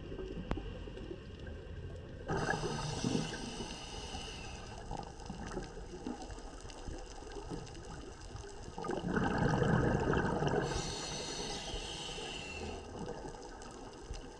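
Scuba diver's regulator breathing heard underwater: a hissing inhalation about two seconds in, a louder bubbling exhalation about nine seconds in, then another hissing inhalation.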